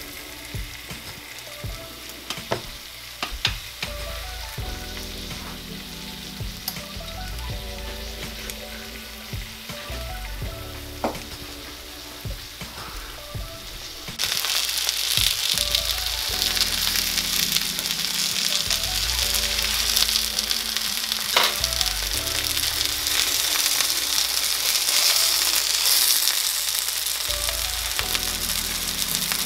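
Stuffed chicken breasts sizzling as they fry in a cast iron skillet, with a few clicks of the spatula against the pan. The sizzle turns louder about halfway through.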